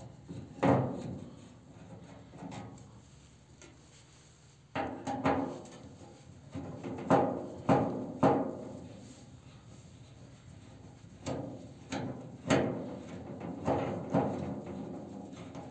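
Irregular sharp knocks and clanks of cast iron stove parts being handled and fitted together, each with a short ring, about a dozen in all, most of them coming thick and fast from about five seconds in.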